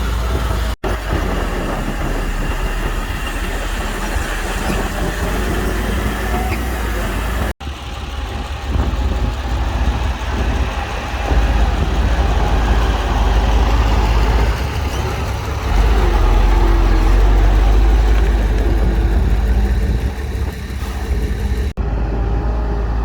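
Heavy diesel earthmoving machinery running under load, a loud steady deep rumble with a faint steady whine above it. The sound breaks off abruptly and resumes at cuts about a second in, near eight seconds and near the end.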